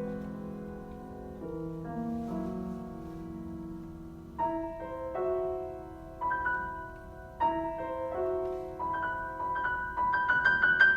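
Solo piano playing a slow melody over held chords, with new chords struck about every second or two, then quick repeated high notes near the end.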